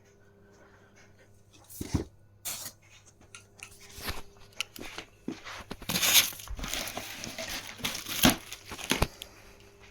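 Flat-pack cabinet packaging being handled and unpacked: crunching, tearing and crinkling of packing material, with several sharp knocks, busiest in the second half.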